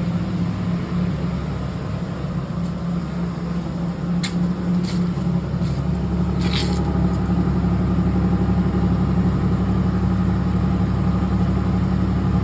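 1998 Mitsubishi Montero's engine idling steadily shortly after a cold start, with a few short clicks about four to seven seconds in; it grows slightly louder after that.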